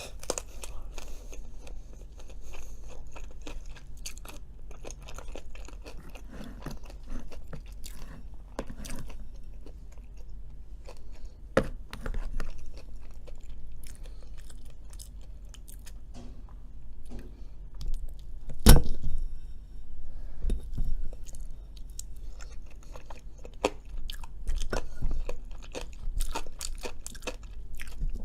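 Close-up chewing and biting of Cajun fries, with small clicks of a fork throughout and one sharp knock about two-thirds of the way in.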